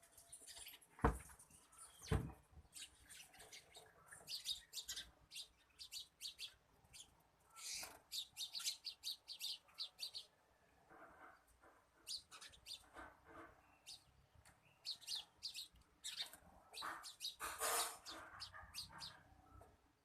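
Birds chirping in quick runs of short, high notes, with two sharp knocks about one and two seconds in.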